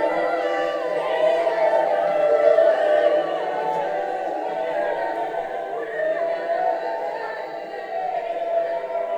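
A choir singing without accompaniment: many voices holding and slowly shifting long wordless notes, the sound easing down a little after about three seconds.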